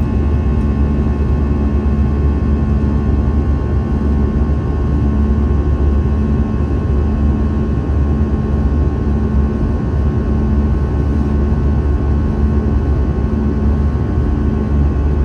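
Airbus A320 jet engines and airflow heard from inside the passenger cabin: a loud, steady low drone with fixed humming tones and a slow throb about once a second.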